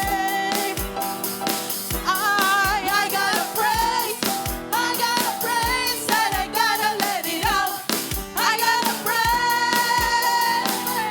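Live worship band playing a gospel praise song with a woman singing the melody over keyboard chords and a steady kick-drum beat.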